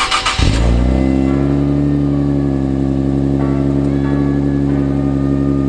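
Infiniti Q50 3.0t twin-turbo V6 with an Invidia aftermarket exhaust, cold-started: it catches about half a second in with a brief flare of revs that falls away, then settles into a steady fast idle.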